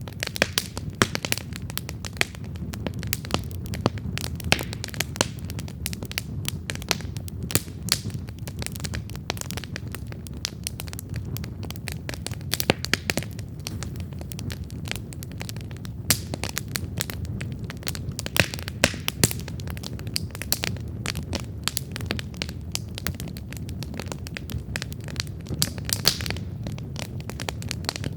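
Wood campfire crackling: dense, irregular sharp pops and snaps of burning wood, some louder than the rest, over a steady low rumble.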